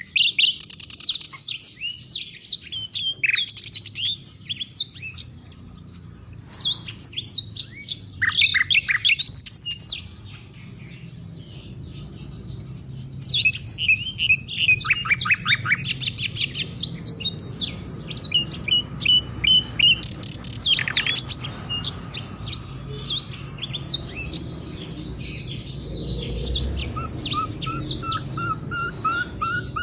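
African songbirds singing: a dense, fast run of high chirps and trills. It drops away for about three seconds near the middle, then picks up again, with a series of lower repeated notes near the end.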